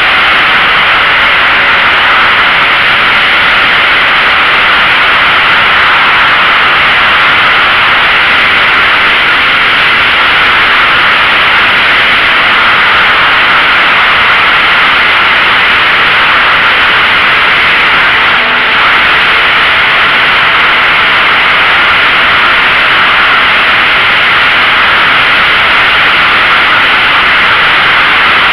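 Loud, unbroken rushing noise with no clear engine note, most likely wind on the microphone of a sport bike being ridden at speed.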